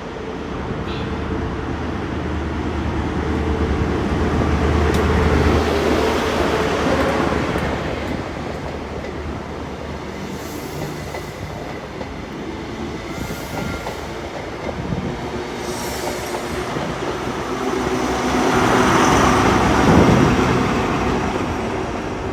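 A Class 43 HST 'Castle' set moving off and passing: the leading power car's diesel engine swells loudest about five seconds in, then wheels click over the rail joints as the coaches go by, and the trailing power car's engine swells again near the end.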